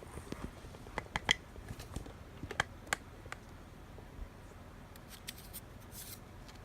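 Scattered light clicks and taps, the sharpest between about one and three seconds in, with a few brief scratchy rustles later on.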